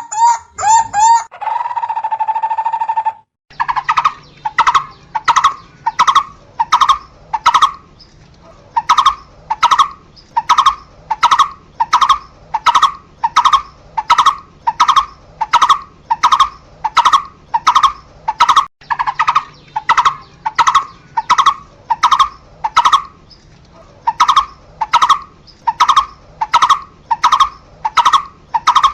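A barbet calling one short note over and over, about one and a half notes a second, with a few brief pauses. In the first few seconds a steady held tone is heard before the repeated calling starts.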